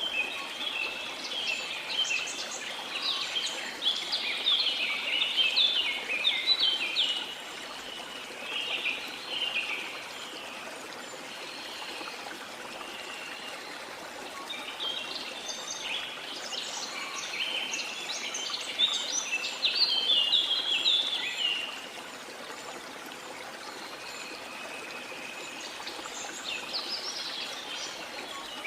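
Birds singing in bouts of quick, rapid chirping phrases over the steady rushing of a flowing river. The birdsong is loudest for the first ten seconds and again around the middle, with a short burst near the end.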